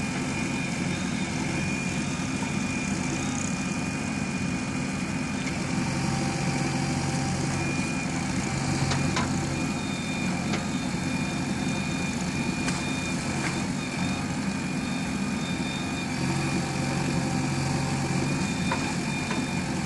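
Heavy diesel engines running steadily, from a JCB 3DX Xtra backhoe loader loading mud into tractors, with a thin high whine coming and going and a few light knocks.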